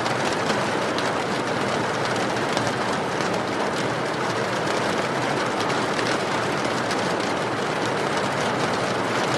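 Steady rain falling, an even hiss with many faint drop ticks through it.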